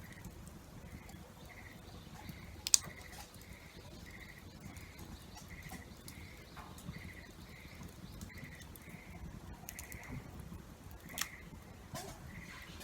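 An animal calling in a steady series of short, pulsed chirps, about one and a half a second, with a few sharp cracks, the loudest about three seconds in.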